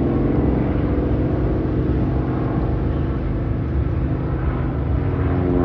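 North American Harvard's Pratt & Whitney radial engine and propeller droning steadily as the aircraft flies by in its display.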